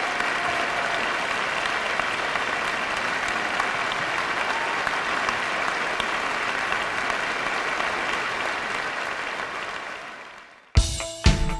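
Audience applauding steadily, fading out about ten seconds in. A rock song then starts abruptly with sharp drum hits.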